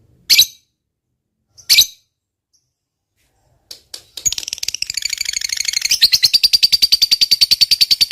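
Lovebird calling: two short, sharp chirps, then about four seconds in it breaks into the long, rapid chattering trill ('ngekek panjang') of about ten notes a second, growing louder as it goes.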